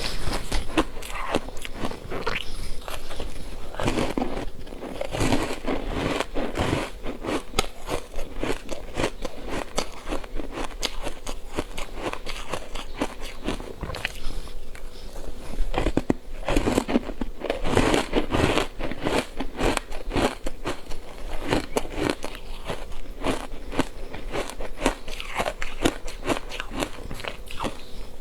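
Ice being bitten and chewed close to the microphone: continuous crisp crunching and crackling as pieces break and are ground between the teeth.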